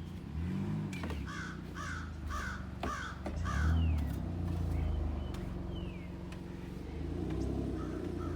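A crow cawing five times in a quick, even series, over the low steady hum of an engine.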